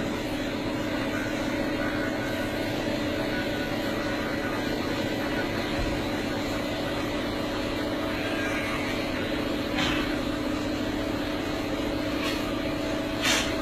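Steady machine drone holding an even pitch, with a few short knocks or clanks about ten seconds in and near the end.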